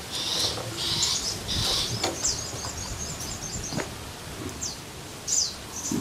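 Songbird calls: three harsh, rasping calls in the first two seconds, then a quick run of high chirps, and two short whistles sliding down in pitch near the end.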